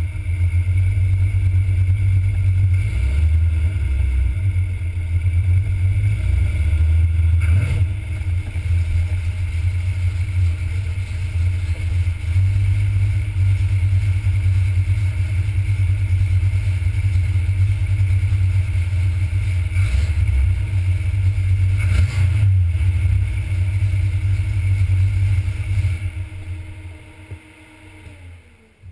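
A 1977 Corvette's 350 small-block V8 idling with a steady low rumble, heard from the hood. Near the end the engine is switched off and the rumble dies away.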